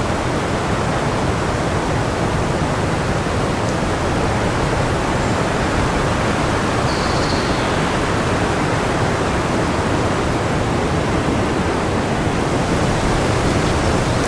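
Steady rushing wind noise, an even roar across high and low pitches with little change, which cuts off suddenly at the end.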